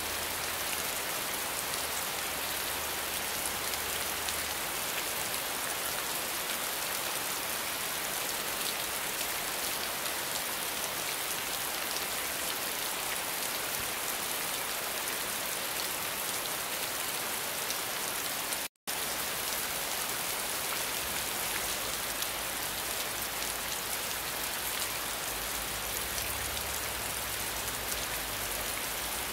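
Steady rain falling on a wet surface, an even, dense hiss of drops. The sound cuts out for an instant about two-thirds of the way through.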